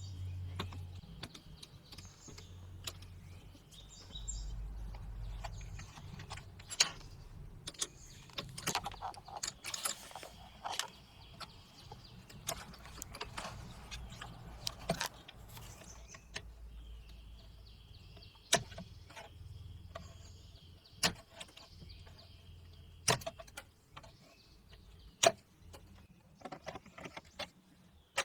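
Scattered clicks and knocks of parts and tools being handled, irregularly spaced, with birds chirping faintly in the background.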